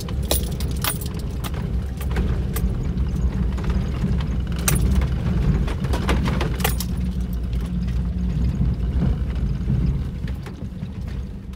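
A car driving: a steady low rumble with irregular clinks and rattles over it.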